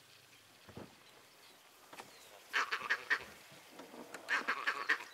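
A bird's loud cackling call, a fast run of harsh notes given twice, each run lasting under a second.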